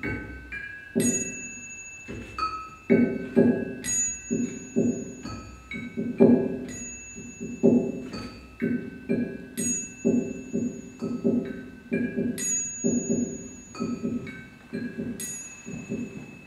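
Percussion music: a steady pattern of low drum strokes with ringing, bell-like tones held over them.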